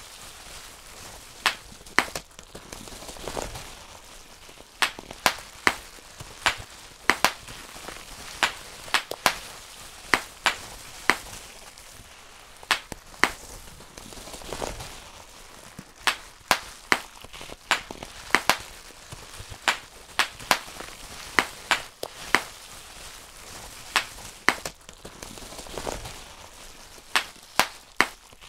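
Bubble wrap being popped by hand, one bubble after another: sharp, loud pops coming singly and in quick runs of two to five, at irregular spacing.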